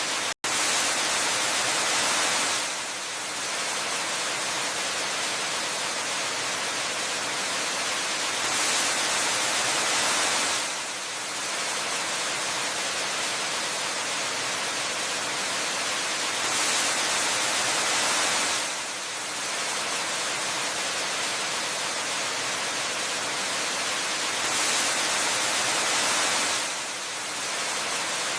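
Waterfall ambience: a steady, even rush of falling water that swells slightly louder for a couple of seconds about every eight seconds. There is a brief cut to silence less than half a second in.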